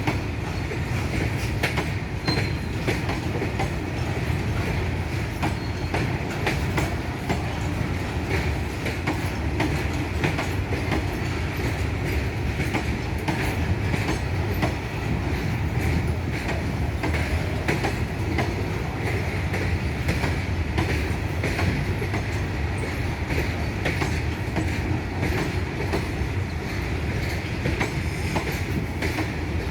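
Freight train of bogie open wagons rolling past steadily, the wheels clicking over rail joints, with a high wheel squeal running under the rumble.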